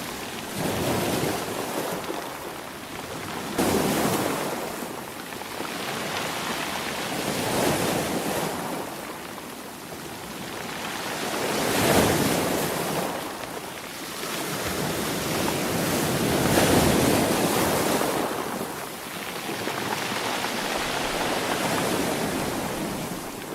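Sea waves breaking and washing in, a rushing surf that swells and fades about every four to five seconds.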